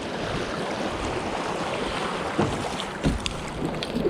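Steady rushing outdoor noise from wind and water on the river, with a few faint clicks and short chirps.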